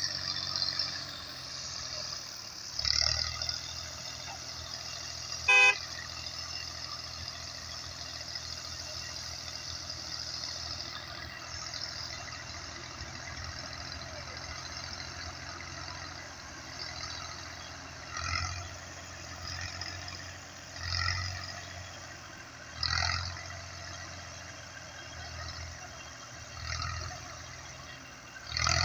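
Tractor diesel engine straining at full power under a heavy trolley load, its low steady running swelling in repeated surges. A vehicle horn toots once, briefly, about five or six seconds in.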